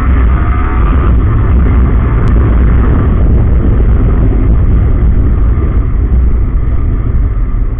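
Yamaha R15M's 155 cc single-cylinder engine pulling under way, heard through heavy wind rush on the rider's microphone; the rumble holds steady and loud throughout.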